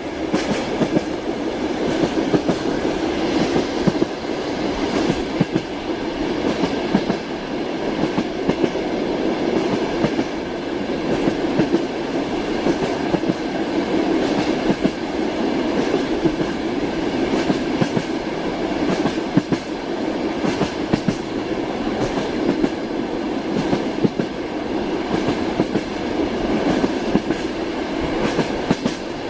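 Moving train heard from inside a passenger carriage: a steady rumble with the wheels clacking over rail joints at irregular intervals.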